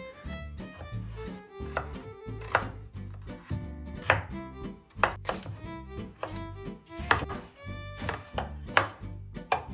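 Knife chopping on a cutting board: sharp, irregular strikes roughly once a second, over background music.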